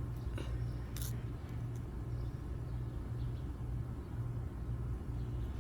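Low steady outdoor rumble, with a faint click about a second in.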